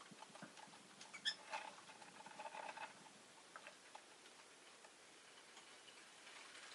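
Rosy-faced lovebird, faint: one short chirp about a second in, followed by a run of small ticking clicks for a couple of seconds, then a few scattered ticks.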